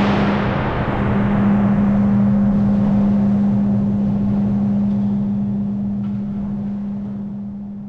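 Steady roar of high wind driven by the fans of a full-scale wind test chamber, with a constant low hum under it. Roar and hum fade away over the last few seconds.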